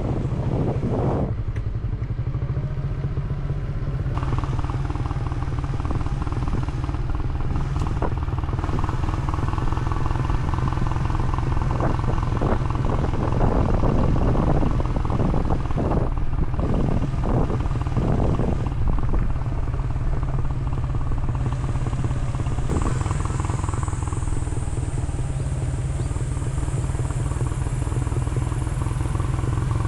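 A vehicle engine runs steadily with a constant low drone. A faint high hiss joins about two-thirds of the way through.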